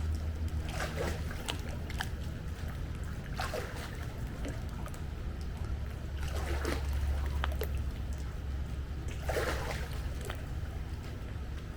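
Pool water sloshing and splashing a few times as someone moves through it during a water workout, over a steady low rumble.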